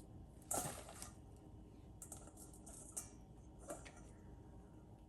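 Faint kitchen handling sounds while preparing food: a short rustle about half a second in, a patter of small clicks and taps a couple of seconds in, and another brief rustle near the end.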